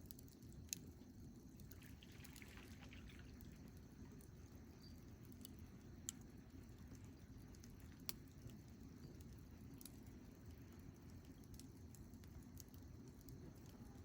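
Wood campfire burning, faint: a low steady rumble with scattered small crackles and a few sharp pops, the loudest about a second in, with others around six and eight seconds in.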